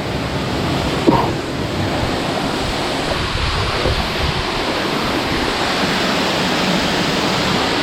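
Waterfall's rushing water, a steady even roar of falling water.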